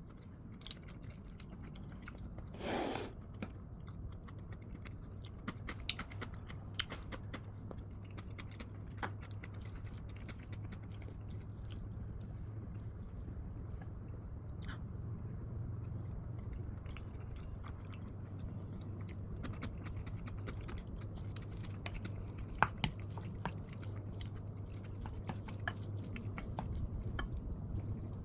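A person eating an eggplant rice bowl close to the microphone: chewing, with scattered small clicks of a spoon or chopsticks against the bowl. A steady low hum runs underneath.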